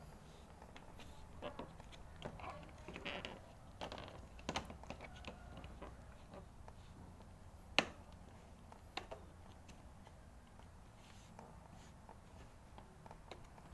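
Scattered light clicks and taps of hand work on small parts, busier in the first few seconds, with one sharper click about eight seconds in, over a faint low hum.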